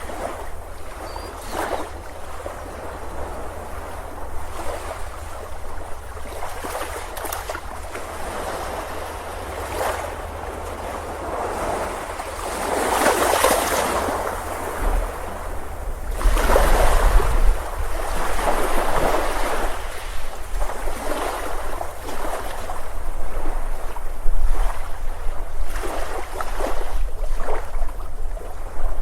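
Ocean surf breaking and washing up a beach, swelling and easing, with bigger waves about 13 and 17 seconds in. Wind rumbles on the microphone underneath.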